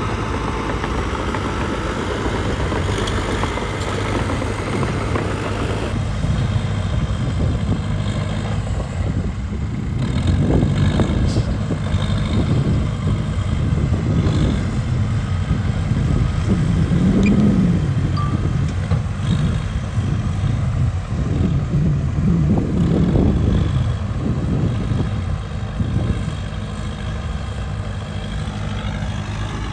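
Cat D3K2 XL bulldozer's diesel engine working, running steadily and swelling louder with rises in pitch several times around the middle before settling back.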